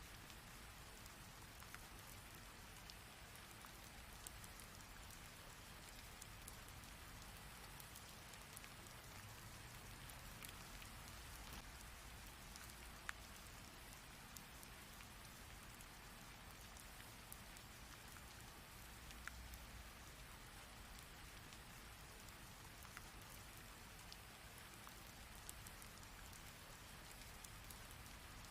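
Heavy rain falling steadily as a continuous hiss, with scattered sharper drop impacts, one louder about halfway through.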